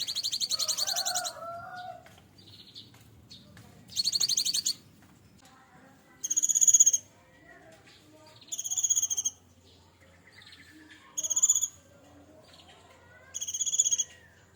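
Cinereous tit (gelatik batu) singing in short phrases about two seconds apart, six in all: the first two are fast high trills, the later four a repeated, shorter high note.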